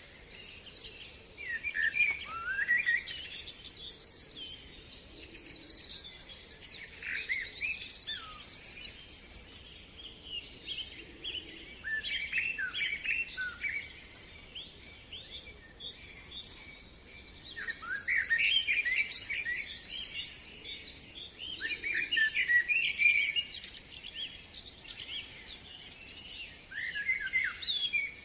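Songbirds singing and chirping together: a busy chorus of quick trills and rising and falling notes, swelling and easing every few seconds.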